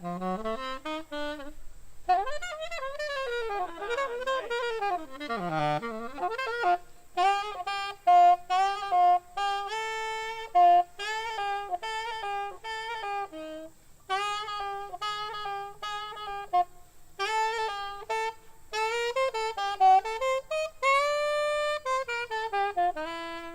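Saxophone playing a jazz solo line: quick runs of short notes, with a swooping passage of bending pitches a few seconds in.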